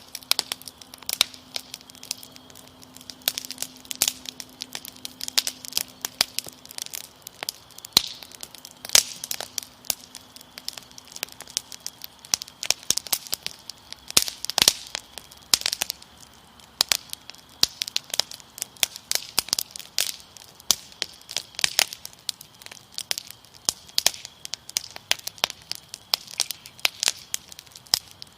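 Wood fire crackling, with dense, irregular sharp pops and snaps, over a faint steady high-pitched cricket trill.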